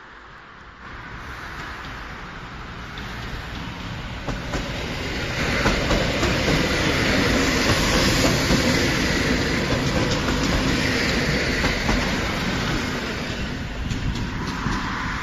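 EN71 electric multiple unit approaching and passing close by, its wheels clattering over the rail joints. The noise builds from about a second in, is loudest about halfway through, and stays loud to the end.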